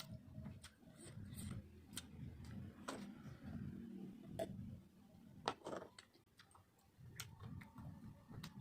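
A person chewing food close to the microphone, with wet mouth clicks and smacks scattered through; one sharp click about five and a half seconds in is the loudest.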